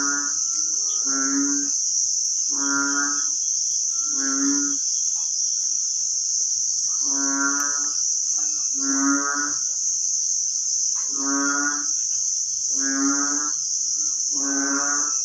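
Frogs calling in the floodwater: short, low, moo-like croaks, each about half a second long, repeating roughly every one and a half seconds. A steady high-pitched insect drone runs underneath.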